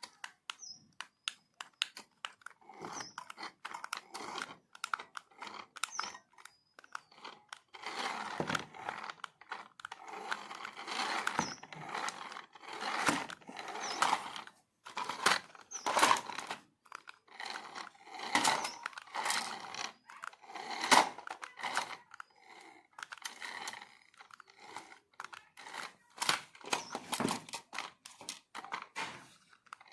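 Packaging being handled and opened: irregular plastic and cardboard crinkling, rustling and tearing, with scattered clicks and louder rustling swells of a second or two.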